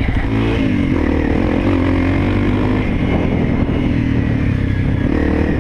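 Honda CRF250L's single-cylinder four-stroke engine running while riding, its pitch rising with the throttle shortly after the start, holding steady, then rising again near the end.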